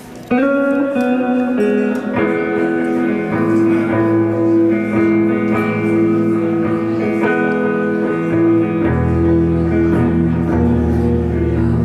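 Live guitar intro: chords strummed and left ringing, with a few changes of chord, starting about half a second in.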